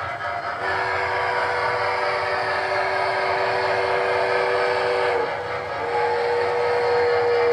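Recorded steam whistle from the sound system of an MTH O-gauge Triplex model steam locomotive: a long two-note blast starting just under a second in, a short break, then a second single-note blast near the end, over the engine's steady chuffing and rumble.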